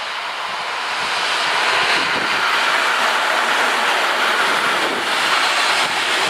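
EN57AL electric multiple unit passing close by: a steady rushing rumble of wheels on rails and running gear. It grows louder over the first couple of seconds as the train comes level, then holds.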